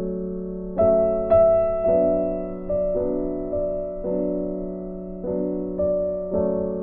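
Background music: slow, gentle electric-piano notes struck about once a second over a steady low drone.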